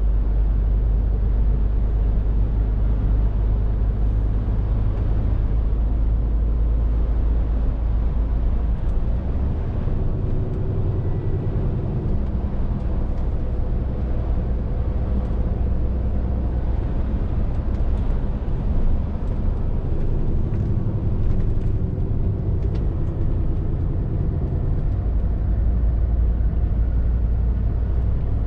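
Scania R450 articulated lorry on the move: its engine running with tyre and road noise as a steady low drone. The engine note shifts about nine seconds in and again about two-thirds of the way through.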